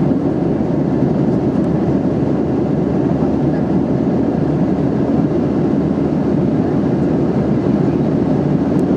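Steady cabin roar of a Boeing 737-800 in flight: the CFM56-7B engines and the airflow over the fuselage make an even, deep rushing noise that holds level throughout.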